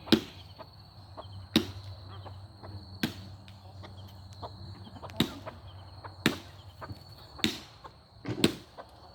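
Firewood being chopped: seven sharp blows spaced about one to two seconds apart.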